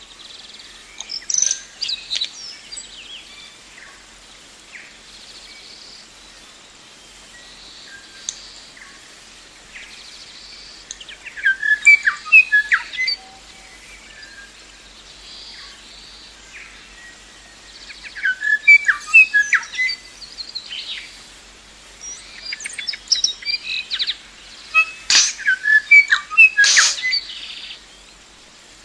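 Birdsong: four bursts of quick, varied chirps and whistles with a few sharp clicks, about a second, eleven, eighteen and twenty-three seconds in, the last the longest and loudest, over a faint steady hiss.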